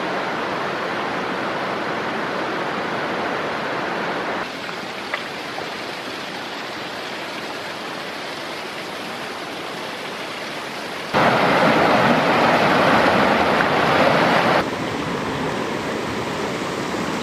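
A mountain stream flowing over rocks, a steady rush of water that steps abruptly in loudness several times and is loudest between about eleven and fifteen seconds in.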